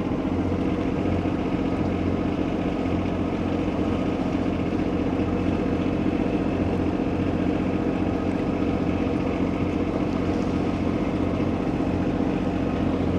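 A sailing boat's engine running steadily at a constant speed as the boat motors in toward a marina, with an even hum that does not change.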